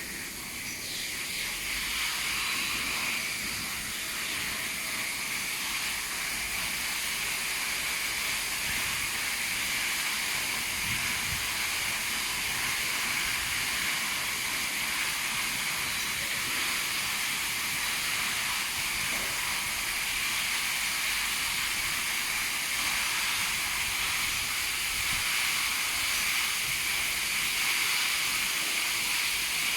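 High-pressure water jets of a touchless car wash machine spraying, a steady rush of spray that builds over the first couple of seconds and then holds even.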